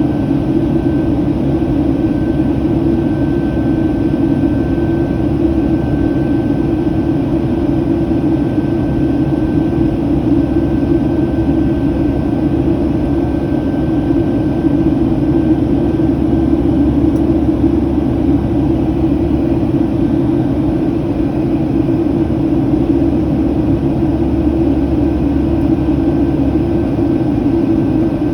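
Steady cabin noise inside a Boeing 757 climbing after takeoff: jet engine and airflow noise as a low, even rumble, with a faint steady whine above it.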